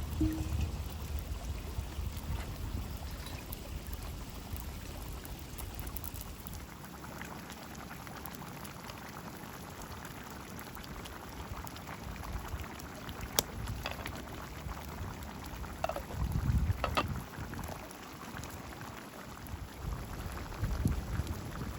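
Liquid bubbling steadily in a cooking pot, with a few sharp clicks and low rumbling swells in the middle and near the end.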